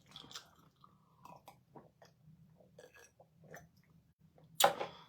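A person chewing a mouthful of pounded yam and ogbono soup close to the microphone: soft, irregular wet mouth clicks and smacks, with one louder mouth noise near the end.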